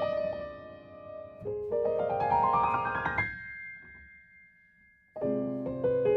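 Background solo piano music: a rising run of notes that fades into a brief pause, then new chords come in about five seconds in.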